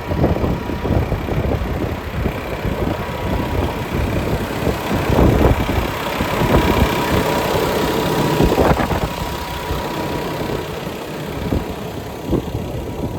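Diesel engine of a 2014 Peterbilt truck idling steadily.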